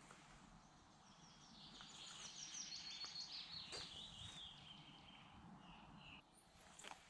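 A small songbird singing faintly: a fast run of high notes that steps down in pitch over about four seconds, starting a second or so in.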